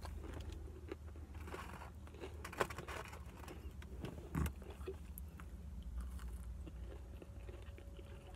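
A person chewing fried chicken fingers and fries close to the microphone, with wet mouth sounds and small crunches, over a low steady hum. Two brief louder knocks come about two and a half and four and a half seconds in.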